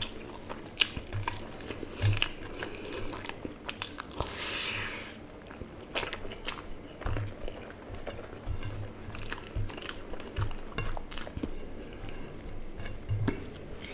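A person chewing mouthfuls of rice and curry close to the microphone, with irregular wet smacking and clicking mouth sounds and a short hiss about four seconds in.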